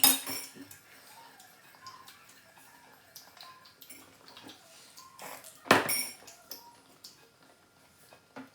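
Metal cutlery clinking against dishes: a loud clank with a brief ring at the start and another about six seconds in, with small clicks and taps between them.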